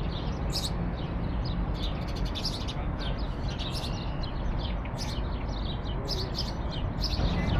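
Songbirds chirping in many short, high calls over a steady low background rumble.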